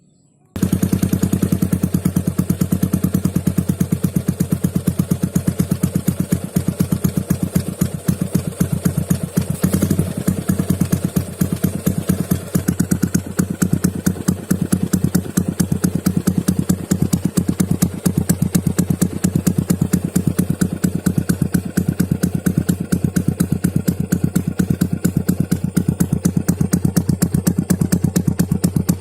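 Yamaha Jupiter MX's single-cylinder four-stroke engine idling through an MCC Trioval aftermarket racing exhaust, 20 cm long and half-packed. It comes in abruptly about half a second in, then holds a steady, even beat of exhaust pulses.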